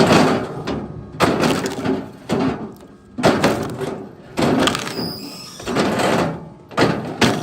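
Chunks of firewood knocking hard against wood, a heavy wooden impact about once a second, each ringing briefly before the next.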